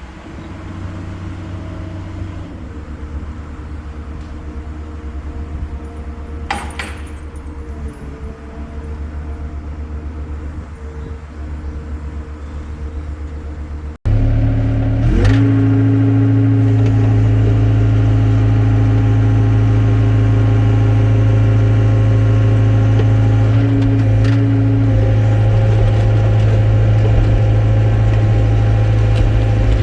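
Excavator diesel engine running steadily, then, after an abrupt cut about halfway, a much louder steady engine drone with a strong low hum, as under heavy working load.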